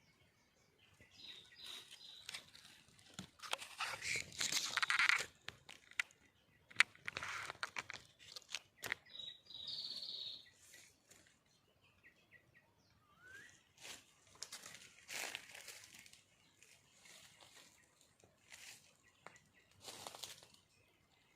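Irregular bouts of rustling and crinkling, loudest about four to five seconds in, with a few sharp clicks and a short high-pitched bird call about ten seconds in.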